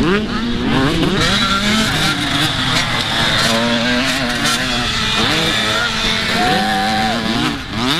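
Several motocross dirt bike engines revving as they race, their pitch climbing and dropping again and again through the gears, with more than one bike heard at once.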